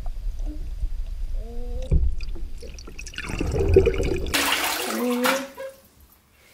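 Muffled sloshing and bubbling of bathwater heard through a submerged camera, with a dull low rumble. About four seconds in comes a loud rushing splash of water lasting about a second.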